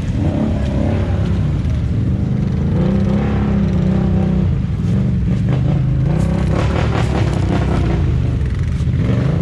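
Off-road vehicle engine running under load, its pitch rising and falling several times as the throttle is worked.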